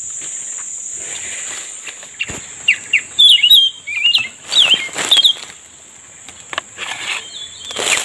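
A small songbird chirping: a quick run of short, sliding whistled notes for about three seconds, starting about two and a half seconds in. A steady high insect drone runs underneath, with a few sharp clicks.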